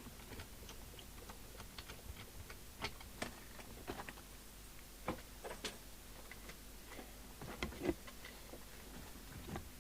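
Faint, irregular clicks and taps of test-bench equipment being handled, its knobs and switches turned and pressed, over a low steady mains hum.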